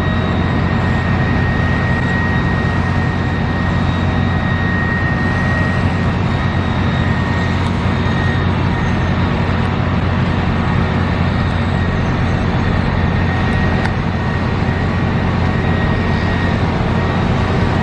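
Steady, loud low rumble of outdoor background noise, with a faint high whine held over it.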